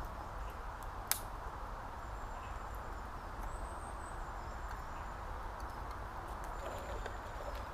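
Campfire embers ticking over in the open woods: an even hiss with one sharp crack about a second in, and a faint high chirp near the middle.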